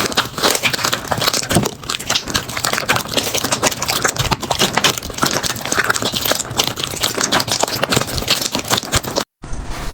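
Slime being pressed and squeezed by hand, with dense, irregular crackling and popping. It breaks off briefly near the end.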